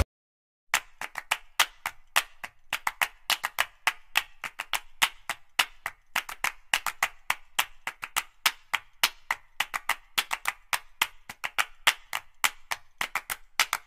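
After a brief silence, a quick, uneven run of sharp clicks like hand claps, about three to five a second.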